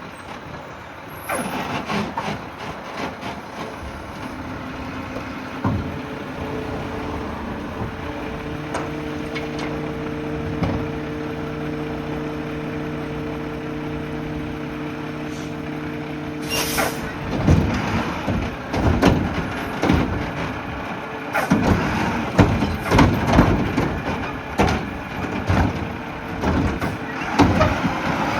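Mack LR garbage truck with a McNeilus Meridian body at work. At first there is clatter. Then the engine holds a steady, higher-pitched run for about ten seconds, which ends in a short hiss of air. After that comes a long series of bangs and knocks as trash and bins are dumped and handled.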